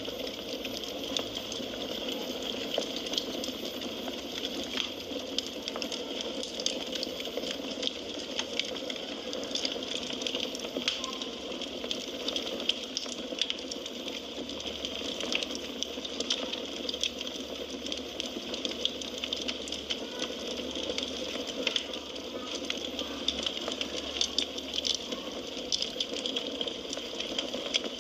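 Firewood burning in a fireplace: a steady hiss with many small, irregular crackles and pops.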